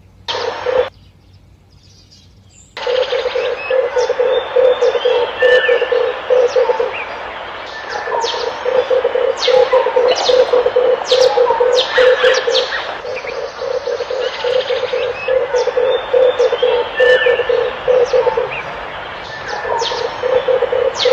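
Red turtle doves calling in long runs of low, rapid pulsed coos, with many short high chirps from other birds over them. A brief burst comes just after the start, then a pause of about two seconds, and the calling runs on from about three seconds in.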